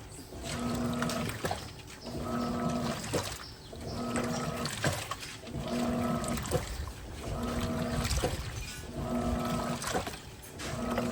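Electrolux LTP15 top-loading washing machine agitating a load: the motor hums in short strokes a little over a second apart, each reversal of the agitator sloshing the water and clothes.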